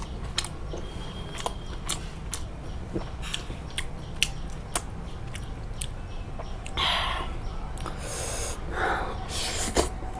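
Close-miked eating sounds: chewing with many wet mouth clicks and lip smacks, and three louder, longer noisy bursts in the second half.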